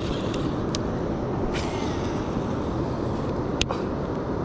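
Steady low rushing noise outdoors, with three short sharp clicks or knocks spread through it.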